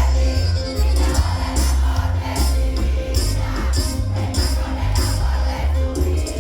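Live band music with a heavy bass and a steady beat of percussion strokes.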